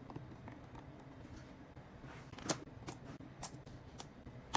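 Faint, sharp clicks of small metal repair tools working on an iPhone 14 Pro's internals while the logic board is unfastened, about four separate ticks in the second half.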